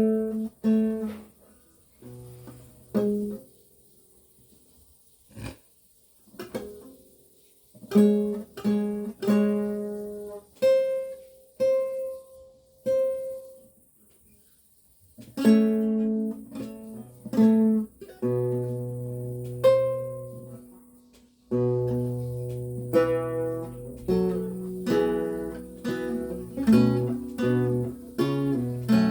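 Solo lute playing a Renaissance piece in plucked chords and single notes that ring and fade, with short pauses between phrases. About halfway through, the playing becomes denser and continuous, with a sustained bass line.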